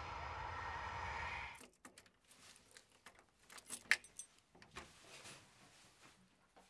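A car engine running steadily, then switched off about one and a half seconds in, followed by keys jangling and a run of light clicks, the sharpest about four seconds in.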